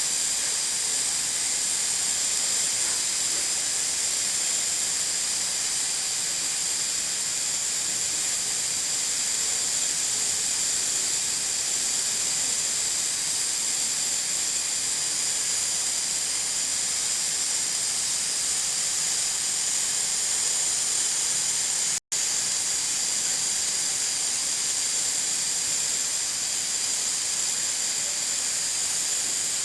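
Nigro pressure cooker venting steam through its weight valve: a steady, high hiss that cuts out for an instant about 22 seconds in.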